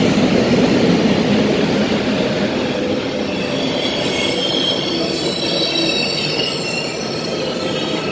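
EU07 electric locomotive and its passenger coaches rolling past as the train arrives, a dense rumble that eases slightly. From about three seconds in there is a high metallic squeal of several steady tones from the wheels as the train slows.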